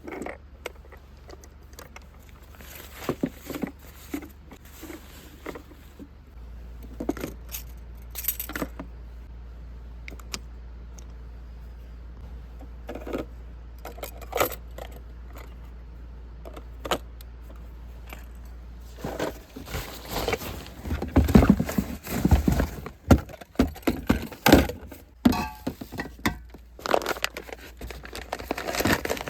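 Small hard objects, sounding like metal, clinking and knocking as they are handled. At first there are scattered clicks, then about two-thirds of the way through a dense, louder clatter and rattle begins.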